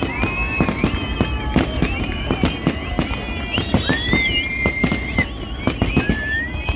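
Fireworks display: rapid bangs and crackles several times a second over a low rumble, with high whistling tones sliding up and down above them.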